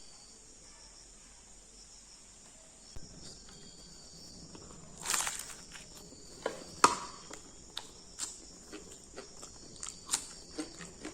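Crickets chirring steadily, with a string of sharp clicks and crunches starting about a third of the way in and growing busier, the loudest just past the middle.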